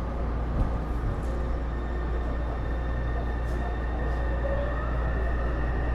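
Taipei Metro Series C301 metro car with Bombardier IGBT-VVVF traction running, heard from inside the car as a steady rumble of wheels and motors. A steady high electrical whine comes in about two seconds in.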